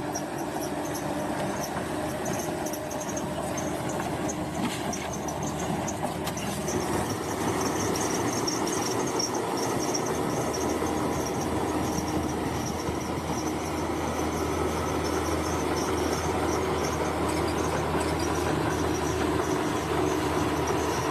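Bulldozer's diesel engine running under load, with a high squeal from its steel crawler tracks. The engine grows louder about seven seconds in.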